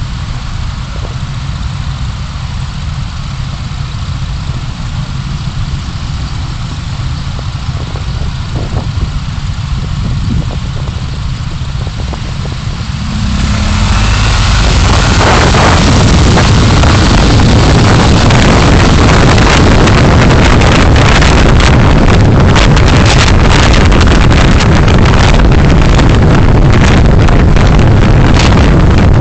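A car driving, recorded by a dashcam: a steady low rumble of engine and road noise that grows much louder about halfway through into a dense rush of wind and road noise with crackling buffets on the microphone.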